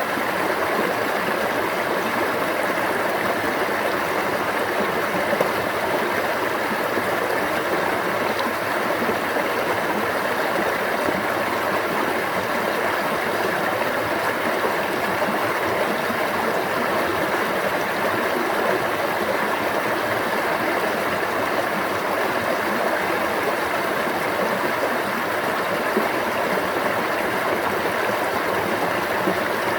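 Stream water flowing steadily, a continuous babbling wash with no break.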